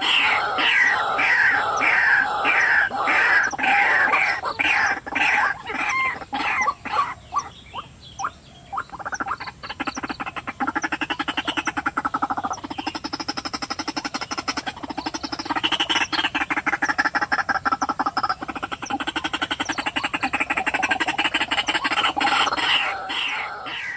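White-breasted waterhen (ruak-ruak) calling: a run of repeated falling notes, about two a second, that fade out around seven seconds in, then a long, fast, croaking series from about ten seconds in until near the end.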